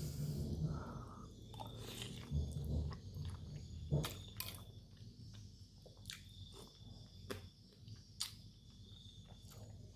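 Close-up eating of chicken noodles with meatballs: chewing and mouth noises, with a few sharp clicks spread through.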